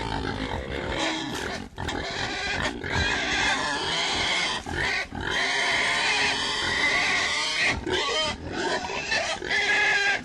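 Pigs squealing: long, loud, high-pitched squeals broken by brief pauses, with lower grunting at the start.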